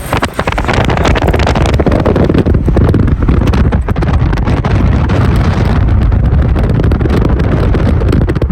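Heavy wind noise buffeting the microphone over a steady low rumble, as on a fast-moving vehicle.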